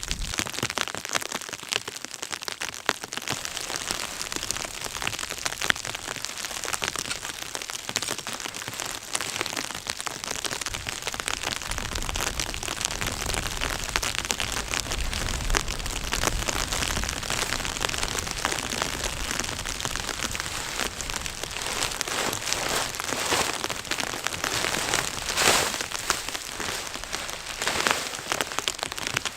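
Steady patter of precipitation striking a surface, a dense stream of fine ticks over a constant hiss.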